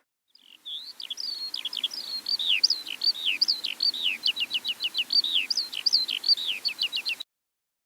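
A songbird singing a fast, varied song of sharp, mostly falling whistled notes mixed with short rapid runs of repeated notes, cut off abruptly near the end.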